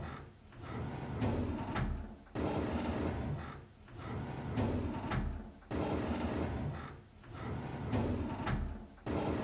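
A drawer sliding open with a scraping rumble that starts suddenly, fades and ends in a click. The same opening repeats about every three and a third seconds, three times over.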